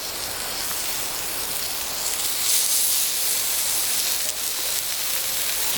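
Bacon-wrapped pork and apple balls sizzling on a campfire hotplate: a steady frying hiss that grows a little louder about two seconds in.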